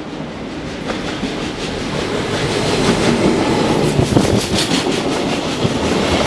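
Electric railcar running along the track, its wheels clicking over the rail joints as it grows louder on approach.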